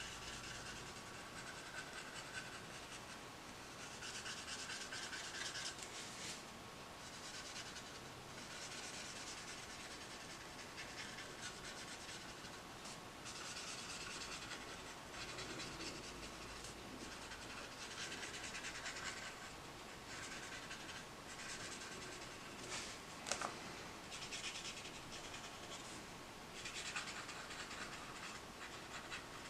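Tombow water-based brush marker stroking across colouring-book paper: soft scratchy strokes in stretches of a few seconds with short pauses between. One sharp tick about three-quarters of the way through.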